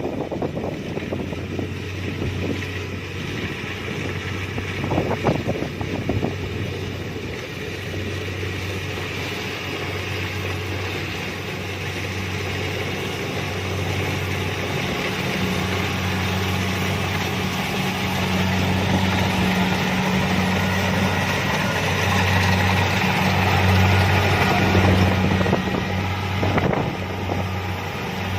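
Kubota DC-70 Plus combine harvester running steadily while harvesting rice. Its low engine hum swells and dips under a broad mechanical rattle from the machine.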